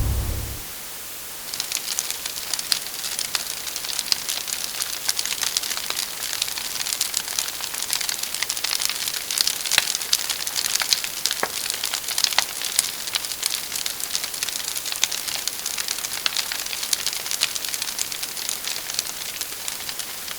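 Steady crackling hiss with many small, scattered pops, starting about a second and a half in and stopping just before the end.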